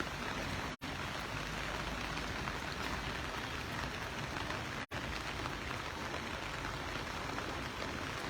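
Steady hiss of rain falling, with the sound cutting out completely for an instant twice.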